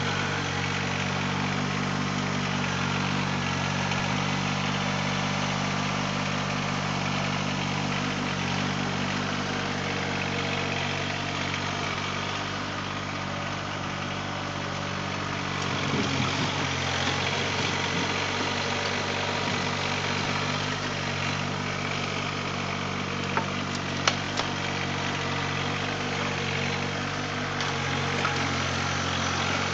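Compact tractor diesel engine running steadily, with a few sharp clanks about two-thirds of the way through.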